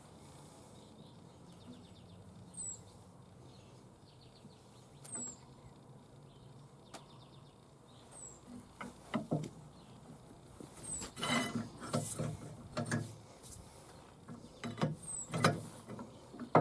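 Scattered knocks and clanks of hand tools and parts being handled, loudest in a cluster about eleven to thirteen seconds in. A bird gives a short high chirp every few seconds.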